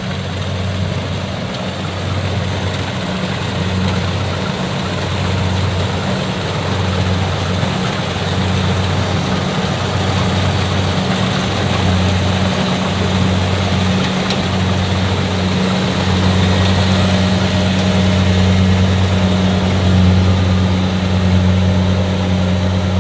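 Kubota DC70 combine harvester's diesel engine running steadily under load while it cuts and threshes standing rice, with a low hum over mechanical noise, growing gradually louder.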